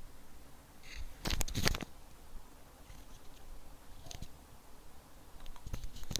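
A computer mouse clicking: a quick cluster of clicks about a second in, then a few fainter clicks near the end, over quiet room tone.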